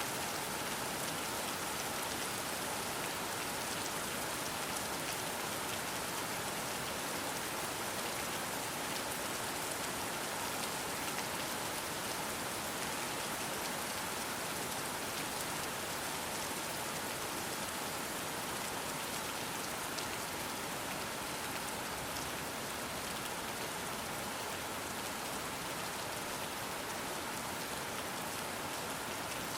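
Soft rain falling steadily, an even hiss of drops that does not change.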